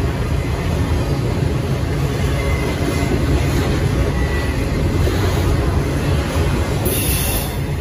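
Intermodal freight train rolling past close by: a steady rumble and clatter of steel wheels on the rails, with a faint squeal in the middle and a brief high hiss near the end.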